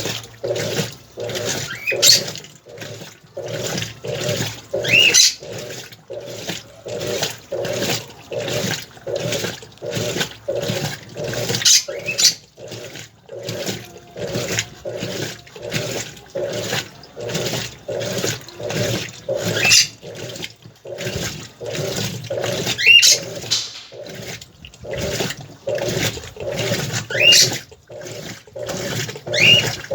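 Centrales washing machine on its rinse cycle, the agitator churning the water and clothes in a steady rhythm of sloshing surges, a little under two a second. A few short high squeaks that rise in pitch come through now and then.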